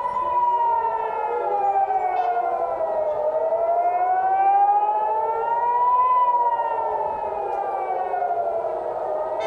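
Civil defense air-raid siren wailing, its pitch sliding slowly down and up and down again in a cycle of about six seconds. It is the warning of an incoming missile attack.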